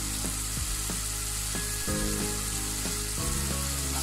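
Onion-and-spice masala frying in oil in a pan, sizzling steadily as it is fried down.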